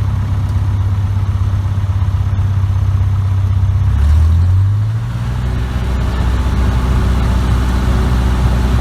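Light aircraft piston engine running steadily at run-up power, around 1700 RPM. About four to five seconds in, its pitch shifts briefly and then settles at a lower, steady speed.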